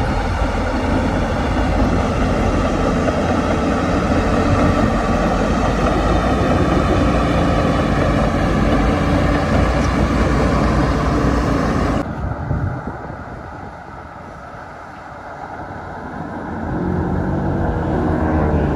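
Heavy diesel earthmoving machinery working: a loud, steady engine that drops off suddenly about twelve seconds in, then an engine builds up again near the end.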